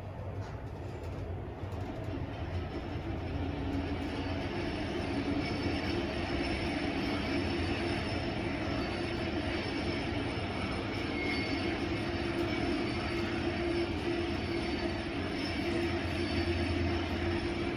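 Kone traction elevator car in travel, a steady loud rumbling and grinding with a low hum and a higher droning tone, building up over the first few seconds as the car gets under way. The noise is abnormal for the lift; its cause is suspected at the counterweight or at something on the car itself.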